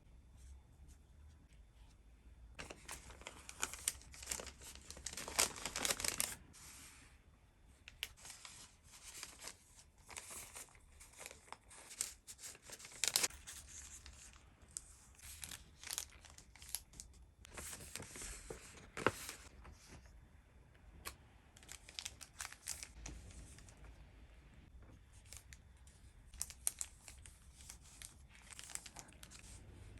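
Paper and plastic packaging handled while packing an order: irregular bursts of tearing and crinkling, with a few sharp clicks.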